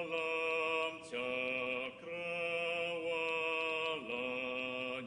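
Voices singing long, held chords without words, changing chord about a second in, again about two seconds in, and once more near four seconds.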